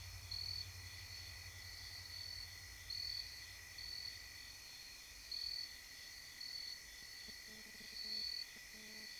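Night insects chirping in the woods: a steady high trill with short, higher chirps repeating about once a second, over a faint low hum.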